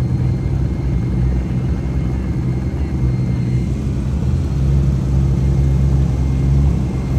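A car engine running nearby with a deep, steady exhaust rumble, getting a little louder about four and a half seconds in.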